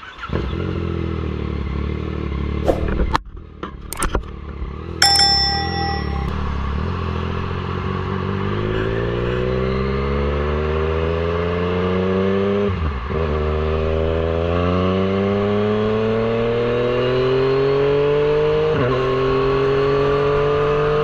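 Yamaha MT-09's inline-three engine idling, with a few sharp clicks and a short ding in the first few seconds. Then the bike pulls away and accelerates, its engine note rising steadily, with a brief dip for a gear change about halfway through and another near the end.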